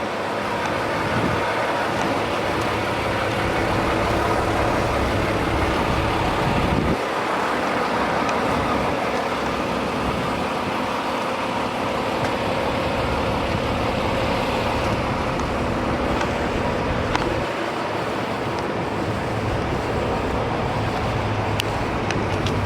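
Motor vehicle engine and road or traffic noise: a steady rumble whose low tones shift about seven seconds in and again near the end.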